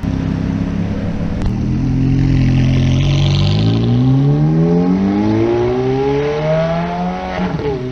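A supercar engine accelerating hard, its pitch climbing steadily for several seconds, then dropping sharply near the end.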